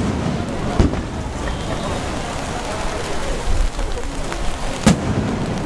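Aerial firework shells bursting with two sharp, distant bangs, one about a second in and one near the end, over the steady hiss of falling rain.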